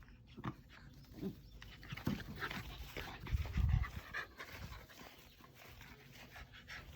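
Shiba Inu panting, with scattered short scuffling noises and a dull thump about halfway through.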